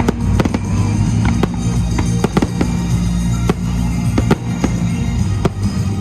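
Fireworks going off in irregular sharp bangs and cracks, about ten in six seconds, over music with a steady bass line.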